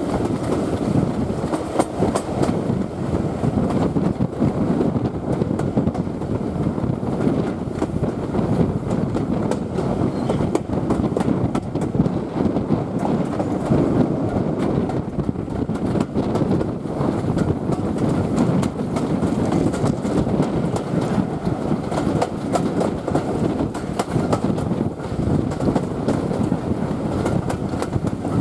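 Heritage railway train running steadily along the track heard from aboard: a continuous rumble of the coaches' wheels on the rails with frequent small clicks and rattles.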